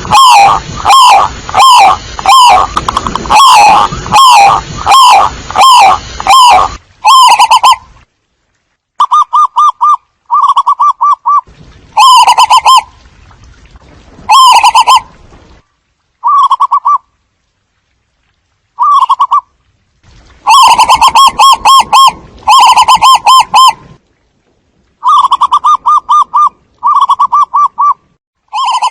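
Zebra doves giving their staccato cooing calls: rapid trilled coo phrases repeated in quick bursts with short pauses between them. A hiss lies under the calls for the first seven seconds or so and then drops away.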